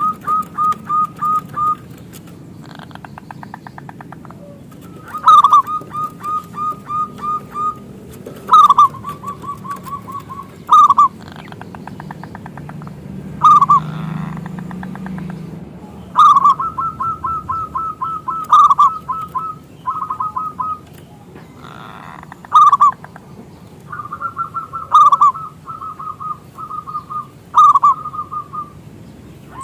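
Zebra dove (perkutut) singing: each phrase opens with one loud, falling coo and runs on into a quick string of shorter, clipped coos, about five a second, with phrases repeating every two to three seconds.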